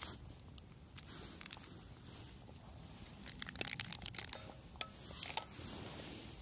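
Crinkling and rustling of something being handled, with a quick run of sharp clicks about three and a half seconds in and a few more near five seconds.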